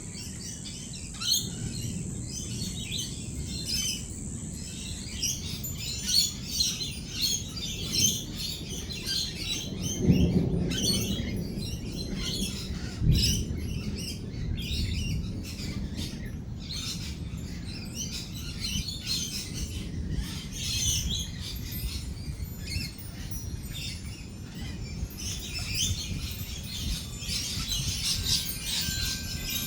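A flock of rainbow lorikeets chattering and screeching in quick, overlapping calls, with a low roll of thunder swelling about ten seconds in.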